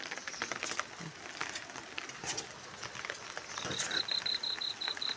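Rain pattering and dripping on wet garden plants. From about three and a half seconds in, a bird gives a rapid run of short high notes, about five a second.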